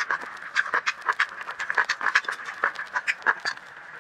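Close-miked eating sounds: wet chewing of a mouthful of noodles, with rapid mouth clicks and smacks several times a second.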